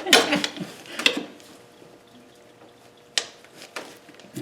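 Metal pry bar clinking and scraping against the turbocharger's wastegate can as a stuck rubber wastegate hose is pried off: a few sharp clinks, the loudest right at the start and another about a second in, then quieter handling.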